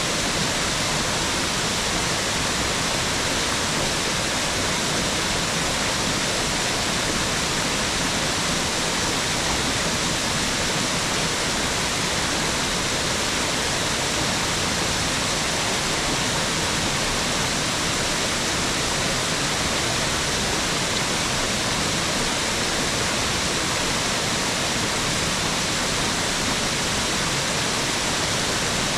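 Mountain waterfall rushing steadily, an unbroken hiss of falling water that does not change.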